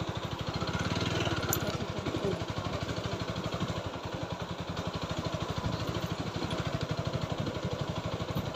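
TVS Apache 4V motorcycle's single-cylinder engine running steadily at low revs, with an even, rapid beat of firing pulses.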